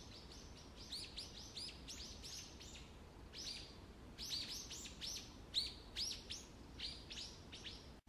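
Wild birds calling: a quick, irregular series of short, high chirps, each sliding down in pitch, several a second, getting louder toward the middle.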